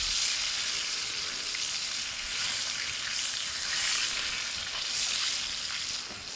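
Fish frying in a frying pan, sizzling steadily in hot oil, the hiss swelling and easing a few times.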